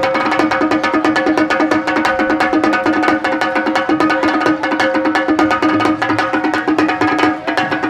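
Parai frame drum beaten with sticks in a fast, steady folk (kuthu-style) rhythm, rapid sharp strokes over the ringing of the drumhead.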